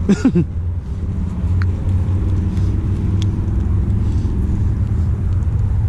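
Steady low rumble with a faint engine hum that swells and fades across the middle, from a passing motor vehicle or boat.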